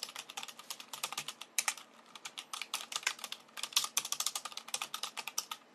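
Rapid computer keyboard typing: many sharp keystroke clicks a second in uneven runs.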